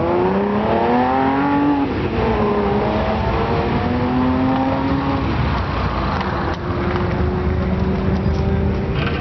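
Classic car with a loud aftermarket muffler accelerating hard. The exhaust note rises, drops at a gear change about two seconds in, rises again through the next gear, then settles to a steadier note.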